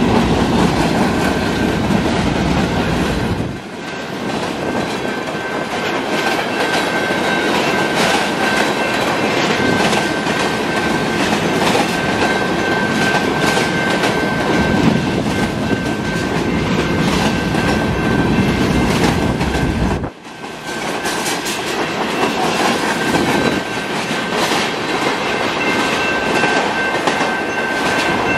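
Canadian Pacific freight train's cars rolling past at a level crossing: steady wheel-on-rail rumble and clickety-clack, with a steady high-pitched tone running through it. The noise dips briefly twice, about three and a half seconds in and again about twenty seconds in.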